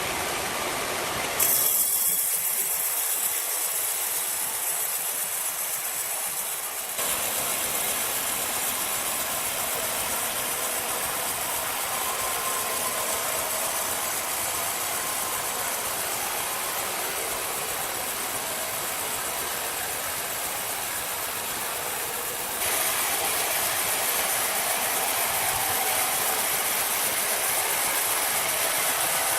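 Steady mechanical noise from machinery running, changing abruptly about a second and a half in, again near 7 seconds, and once more near 22 seconds.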